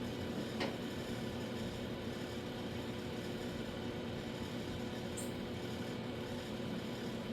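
Steady mechanical hum of machinery running in the garage, with a single light click about half a second in and a brief high chirp near the end.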